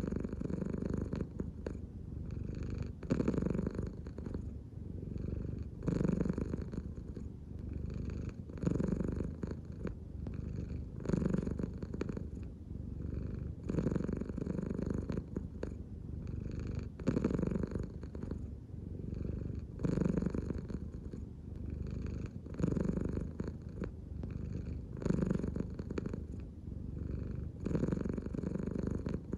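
American Shorthair cat purring, the rumble swelling and fading with each slow breath, about once every two and a half to three seconds.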